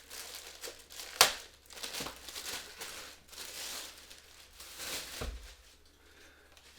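Plastic wrapping crinkling and rustling as it is pulled off an RC airplane's horizontal stabilizer, with one sharp snap about a second in and a duller knock near the end before it goes quiet.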